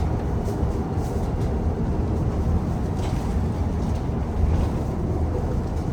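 Train running, a steady low rumble with a few faint ticks.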